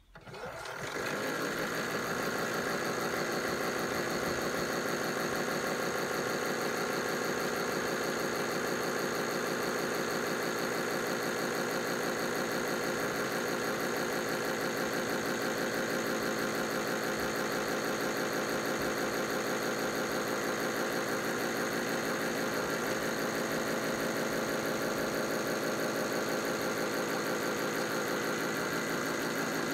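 Tide Juniors Home toy washing machine by Europlay running its spin cycle: the small electric motor and drum start up, build over about a second, then run with a steady, even whir.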